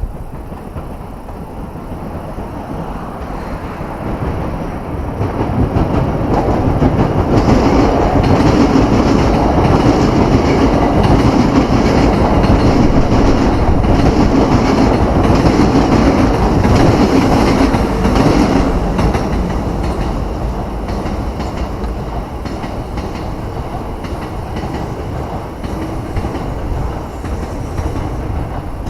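A Hankyu electric train passing close by, its wheels clattering over the rail joints. The sound builds over a few seconds, stays loud for about twelve seconds, then fades as the train moves away.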